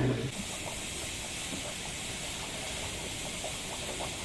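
Steady hiss of a pot of food cooking over heat, with faint scattered pops; it starts abruptly about a third of a second in.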